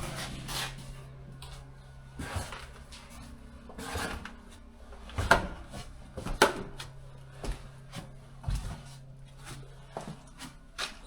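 Scattered knocks and thumps at irregular intervals, the loudest about five and six and a half seconds in. A low steady hum underneath fades out about five seconds in.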